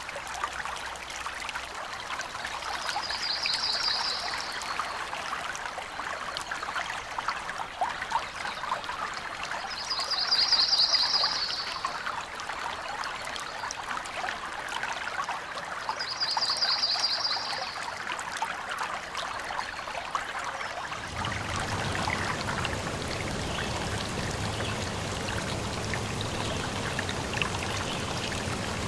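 Forest stream trickling and splashing steadily, with a short high trill heard three times, several seconds apart. About two-thirds of the way through the water turns fuller and deeper, with a low hum underneath.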